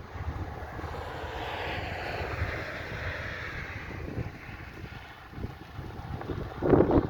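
Steady drone of a distant aircraft passing over, with its pitch slowly falling, over a low wind rumble. Near the end, wind buffets the microphone loudly.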